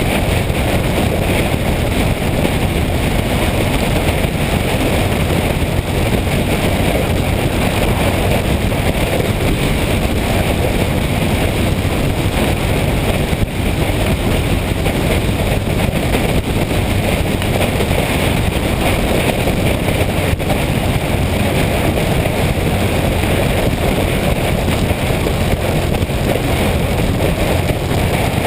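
Motorcycle on the move: a steady rush of wind over the microphone mixed with engine and road noise.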